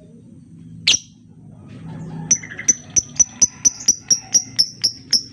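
Lovebird calling: one sharp high chirp, then a fast run of shrill chirps at about four a second that goes on to the end.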